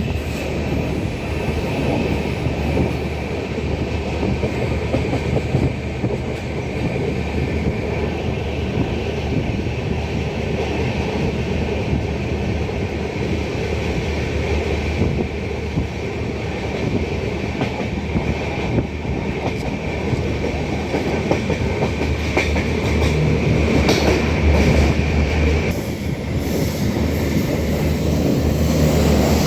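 Passenger train running along the rails: a steady rumble of wheels and coaches with some clickety-clack, and a faint high whine that stops near the end.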